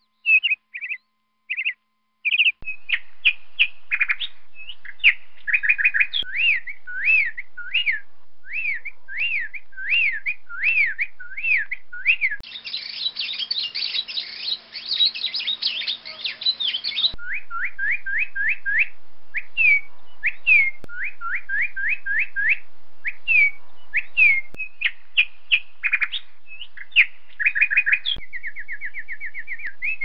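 Birds chirping: a long run of quick, repeated sliding chirps, with a denser stretch of many overlapping chirps in the middle that starts and stops abruptly.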